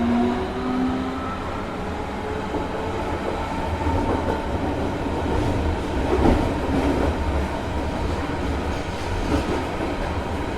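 Train running: a steady low rumble with rattling, louder clatter about six and nine seconds in, and a faint rising whine that fades out in the first couple of seconds.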